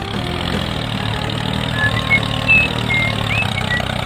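Small engine running steadily at idle, a low even hum, with a few short high chirps over it in the second half.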